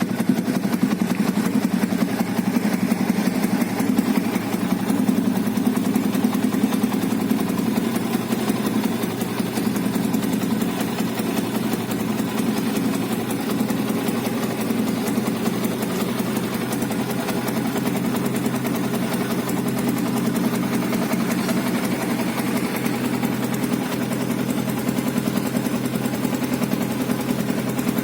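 Yamaha Vixion New motorcycle's single-cylinder four-stroke engine idling steadily through a Satria FU-style muffler, a sound close to that of the stock exhaust.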